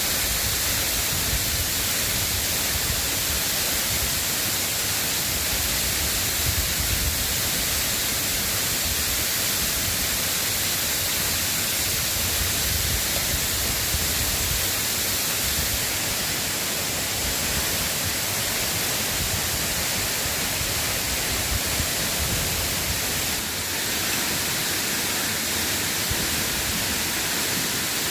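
Steady, even hiss of light drizzling rain, with an uneven low rumble underneath.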